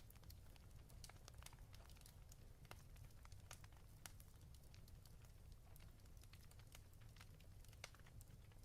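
Wood fire in a fireplace crackling quietly: irregular small pops and snaps over a low steady rumble.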